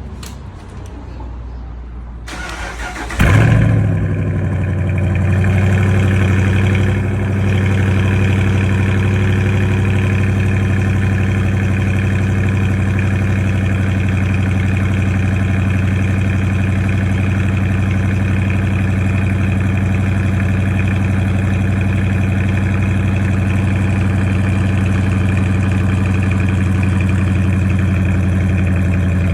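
2018 Dodge Charger's 5.7-litre Hemi V8 cold start: the starter cranks briefly about two seconds in, the engine catches with a loud flare, then settles into a steady cold idle with a slight dip a few seconds later.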